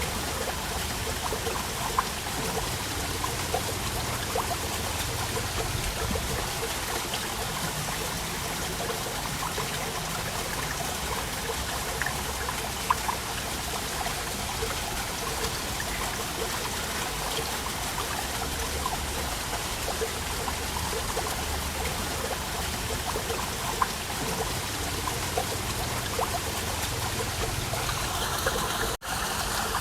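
Waterfall water falling and splashing steadily, with many small trickles and drips, broken by a split-second dropout near the end.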